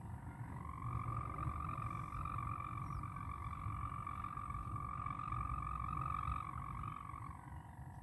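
Hummer bow (busur) of a flying Malaysian wau kite humming in the wind: one steady drone that rises in pitch about a second in and sinks again near the end. Wind rumbles on the microphone underneath.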